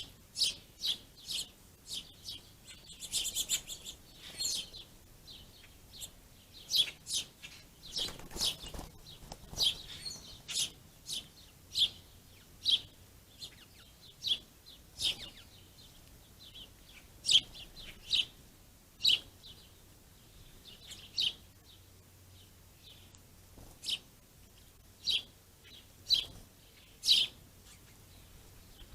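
Small songbirds chirping: short sharp chirps at irregular intervals, roughly one a second, with a brief burst of faster twittering about three seconds in.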